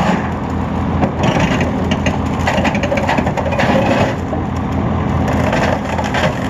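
Excavator's diesel engine running steadily while the machine crunches and scrapes the metal of a large produce chiller apart, in repeated rough spells.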